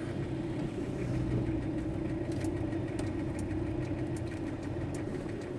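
VW T4 Transporter van's engine running steadily, heard from inside the cab.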